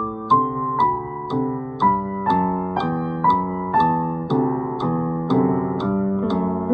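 Electric keyboard playing a simple beginner's piano piece, one steady note or chord about every half second, each starting with a short high tick.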